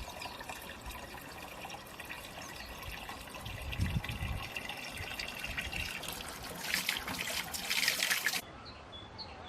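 Water running and trickling steadily, swelling louder for a couple of seconds before cutting off abruptly a little over eight seconds in.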